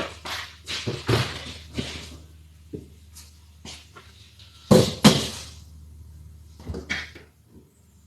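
Knocks and clatter from car interior parts and tools being handled during seat removal, with two loud knocks about five seconds in, over a faint steady low hum.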